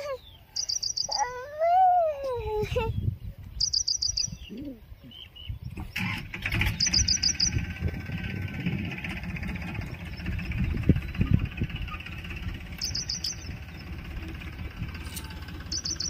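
A small bird repeating a short, high, rapid trill of about five notes every few seconds. A low rumbling noise sets in about six seconds in.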